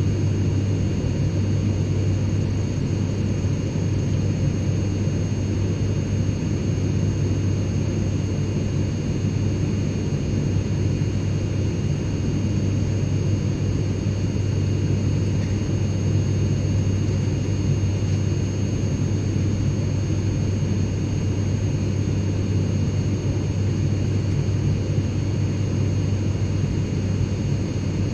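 Airplane cabin interior in flight: a steady low drone of engine and air noise, with faint thin whining tones held high above it.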